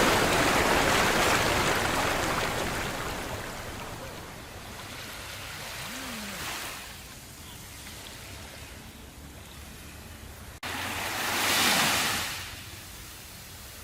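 Ocean surf: a wave washing up and fading over the first few seconds, a smaller one about six seconds in, and another surging up and fading near the end, with an abrupt cut just before it.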